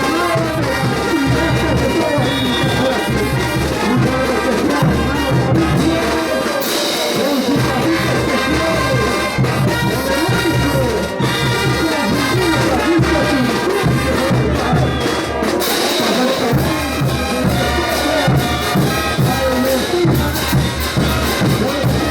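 Bolivian brass band (banda de bronce) playing a ch'uta carnival dance tune, with trumpets and trombones over a steady low drum beat.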